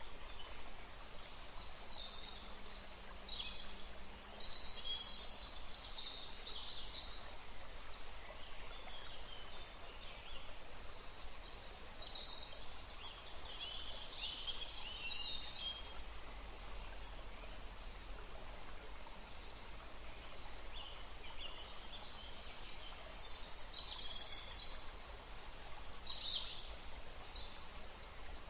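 Woodland ambience: several small birds chirping and singing in short, high phrases, scattered through and sparser for a few seconds in the middle, over a steady background hiss and a faint low rumble.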